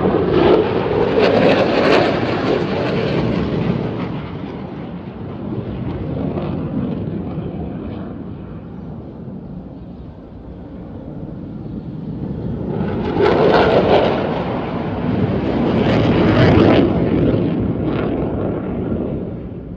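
F-16 fighter jets passing overhead, their engine noise loud at first and fading, then building again about thirteen seconds in for a second pass that dies away near the end.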